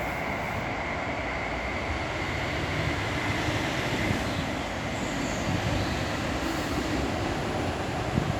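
Class 59 diesel-electric locomotive with its EMD two-stroke engine hauling a heavy stone train, running past with a steady rumble and a faint steady high whine.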